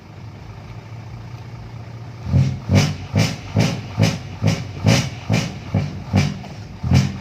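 Six-wheel truck's horn sounded in rapid short blasts, about two or three a second, starting about two seconds in, over a steady engine idle. It is being tried out after fitting to hear how loud it is.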